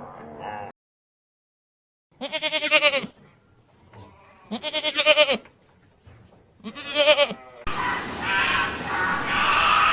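Goat bleating three times, each call a wavering, trembling bleat under a second long with pauses between. About eight seconds in, an abrupt cut to a louder, noisier, muffled recording with a continuous din.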